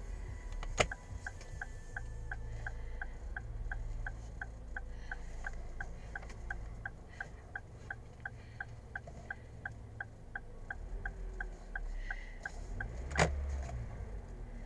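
Car engine running with a low rumble, heard from inside the cabin, while the turn-signal indicator ticks steadily about three times a second. A sharp click about a second in starts the ticking and another near the end stops it: the indicator stalk being switched on and off.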